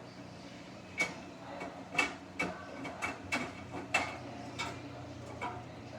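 A jacket knocking against the drum of a Samsung washing machine as it turns, about eight sharp, irregular clicks and knocks over the machine's steady low hum.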